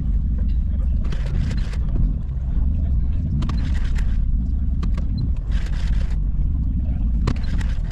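Car engine running at low speed as the car is manoeuvred to park, a steady low rumble. Three short bursts of hiss and scattered clicks sound over it.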